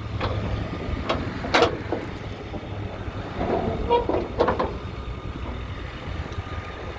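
Steady low rumble of a Ford F-350's diesel engine idling, with a few short knocks or clanks, the loudest about a second and a half in and a cluster around four seconds in.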